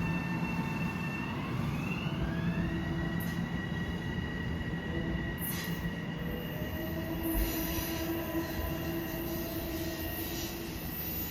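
Long Island Rail Road train moving on the rails: several high whining tones glide up in pitch in the first couple of seconds and then hold steady over a continuous rumble, with some wheel squeal.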